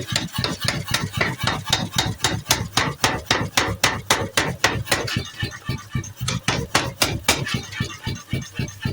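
Power hammer striking a plow part, a fast, even train of metal blows at about four a second.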